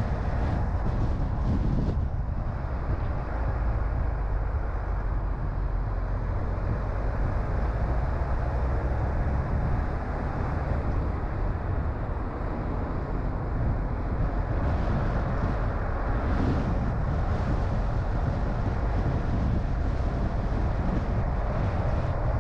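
A car driving: steady low rumble of engine and tyres on the road, with a constant road-noise hiss.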